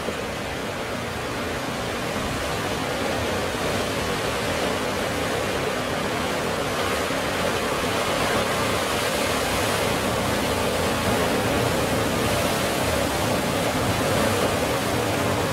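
Ocean surf: waves breaking in a continuous, steady rush that grows gradually a little louder over the first several seconds.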